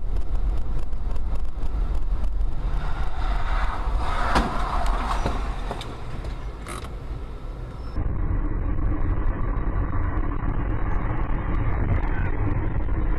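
Motor vehicle driving noise: a steady low rumble of engine and road, with a sharp knock about four seconds in. The sound changes abruptly about eight seconds in to another low vehicle rumble.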